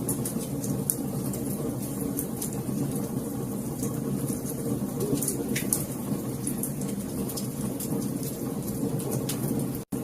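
Wood fire in a fireplace crackling: many sharp little pops and snaps over a steady low rush of burning. The sound cuts out for an instant near the end.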